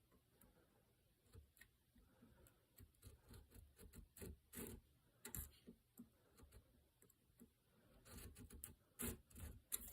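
Faint, irregular scraping clicks of a homemade checkering tool, ground from a flat-bladed screwdriver, drawn in short strokes across wood to score checkering lines. The strokes begin about three seconds in and come in small clusters, thickest in the middle and near the end.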